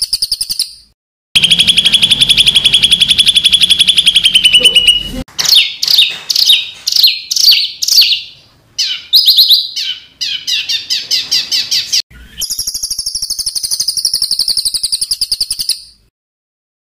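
Songbird song made of harsh, rapid 'tembakan' phrases: a fast high trill, a buzzing rattle about four seconds long, then a string of quick down-slurred notes and another fast trill. The phrases start and stop abruptly, as spliced recordings do, and there is a short silence near the end.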